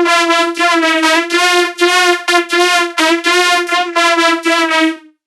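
Electronic music: a buzzy, horn-like synthesizer note repeated on one pitch in a choppy rhythm, then cut off abruptly about five seconds in.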